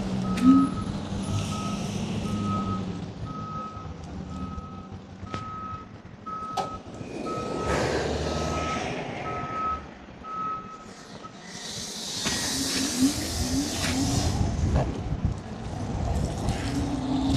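A vehicle's reversing alarm beeping steadily at one pitch, about once a second, for about eleven seconds, over the low rumble of traffic. Soon after the beeps stop comes a loud burst of hiss.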